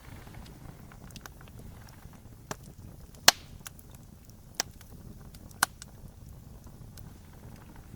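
Wood fire crackling, with four sharp pops among the faint crackles; the loudest pop comes a little under halfway through.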